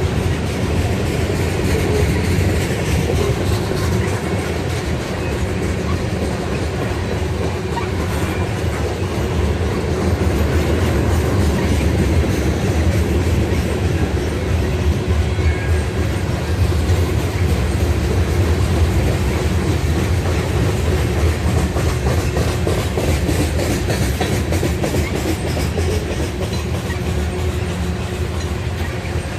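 Norfolk Southern freight train rolling steadily past, its wheels clicking over the rails as the cars go by.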